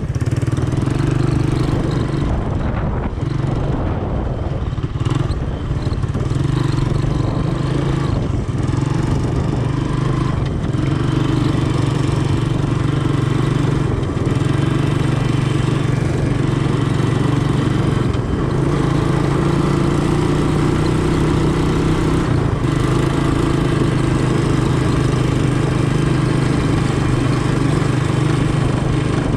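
Honda ATC 200M three-wheeler's single-cylinder four-stroke engine running steadily under way, with a few brief dips in throttle.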